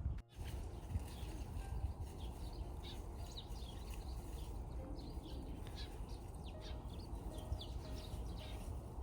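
Many small birds chirping and twittering in quick, overlapping calls over a steady low rumble outdoors.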